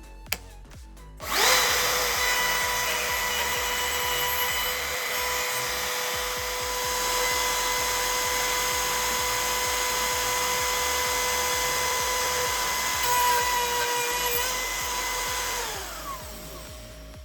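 An electric power tool's motor is switched on about a second in and runs steadily at high speed with a high whine. Near the end it is switched off and spins down, its pitch falling.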